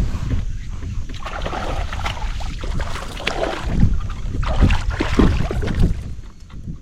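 Water splashing and irregular knocks around a fishing kayak while a caught bass is handled aboard, with wind buffeting the microphone. It eases off near the end.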